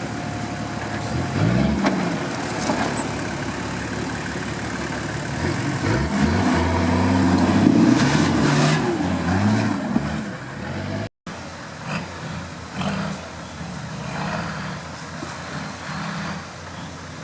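Off-road vehicle engine revving in bursts, its pitch rising and falling again and again, loudest around the middle. After a brief dropout about two-thirds through, shorter and quieter revs follow.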